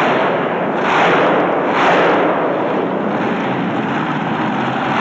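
Racing truck engine running hard at full throttle, swelling louder about a second in and again just before two seconds.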